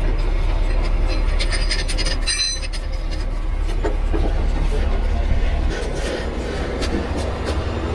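Heavy truck diesel engine running low and steady, with scattered metallic clinks of chain and rigging and a brief high squeal a little over two seconds in.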